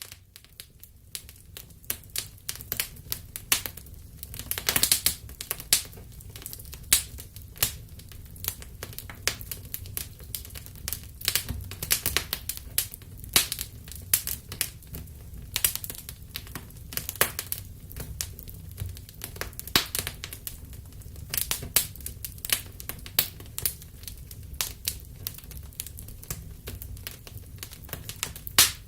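Campfire burning, the wood crackling with many small irregular snaps and occasional louder pops over a steady low rumble of the flames.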